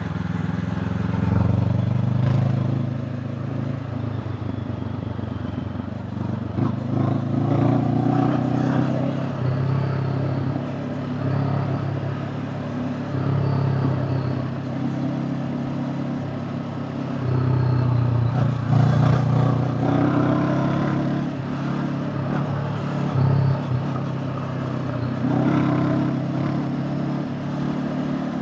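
Honda CB500X's parallel-twin engine running under way, its note rising and falling with the throttle, with several swells of acceleration and a few short knocks.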